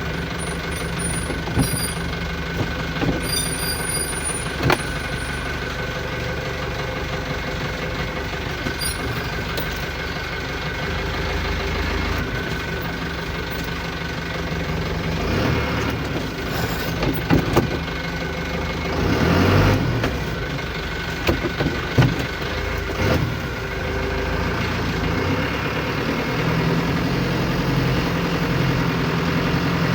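Hino 300 truck engine idling steadily, with scattered knocks and a short hiss about two-thirds of the way through.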